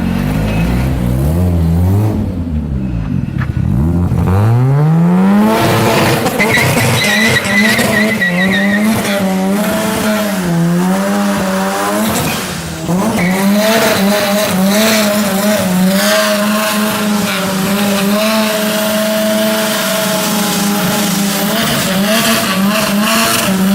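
Rotary-engined car revving hard from low to high rpm over the first few seconds, then held at high revs that waver up and down with a brief dip about twelve seconds in. The rear tires spin and squeal in a burnout.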